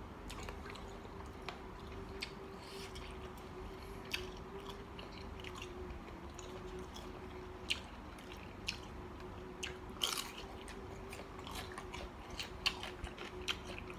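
A person chewing and biting into mixed seafood salad, with scattered short crunchy clicks and a brief burst of crunching about ten seconds in.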